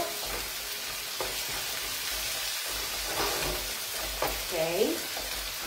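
Thinly sliced artichokes sizzling as they fry in a wok, with a few light knocks from stirring.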